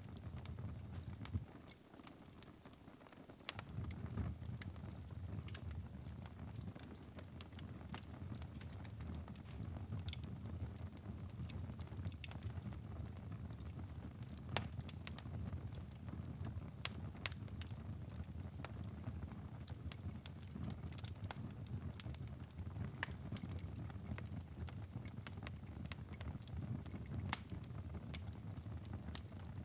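Wood fire crackling in a fireplace: scattered sharp pops and snaps over a low, steady rumble of flames. The rumble drops away briefly about two seconds in.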